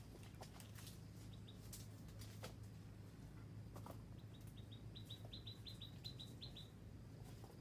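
A bird calling: a rapid series of short, high, downward-sliding chirps, about five a second, growing louder over a couple of seconds, over a faint low steady hum and a few soft clicks.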